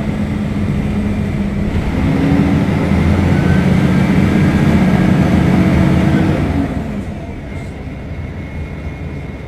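Diesel engine of a Mercedes-Benz O500UDA articulated city bus running under load. It grows louder and climbs slightly in pitch about two seconds in, then eases off and drops back about seven seconds in.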